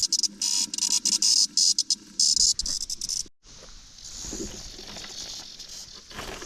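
Cicadas buzzing: short, broken high buzzes in the first half, then after a brief break about three seconds in, a steady high-pitched chorus.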